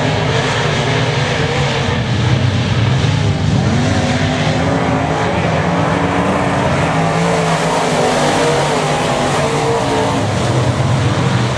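Race car engines running on the track, several at once, their pitch rising and falling as the cars go around.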